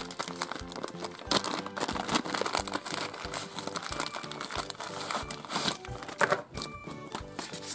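Clear plastic packaging crinkling and rustling as it is squeezed and turned in the hands, over background music.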